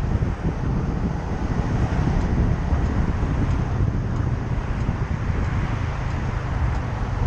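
Motorcycle on the move, its engine running steadily under heavy wind buffeting on the microphone.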